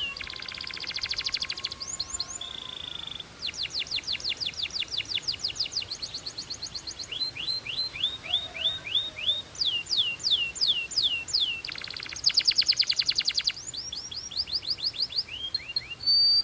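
Belgian canary singing a continuous song. It strings together runs of quick whistled notes that each fall in pitch, several very fast rattling trills, and one short held note.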